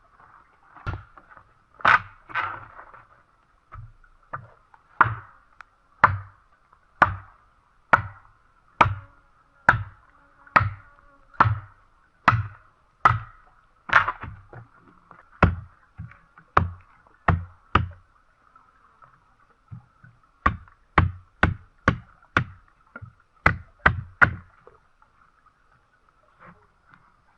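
A steady series of sharp tool strikes on wood, about one a second, some thirty blows with a short pause about two-thirds of the way through and a stop a few seconds before the end.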